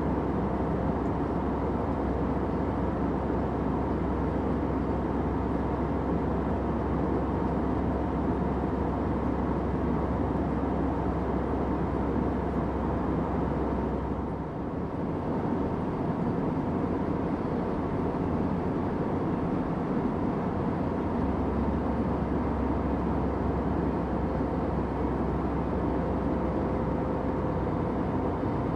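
Steady airliner cabin drone: a dense rushing roar of engine and air noise with a faint hum in it. It dips briefly about halfway through, and the deepest rumble thins out for several seconds after.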